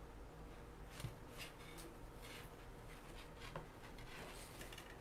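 Faint rustling and a few light clicks of hands handling wreath-making materials.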